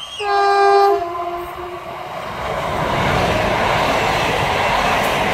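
Renfe class 447 electric multiple unit sounds its horn in a short blast of about a second, dropping to a slightly lower, quieter tone. Then its wheels on the rails build into a loud, steady rolling rush as the train passes close by.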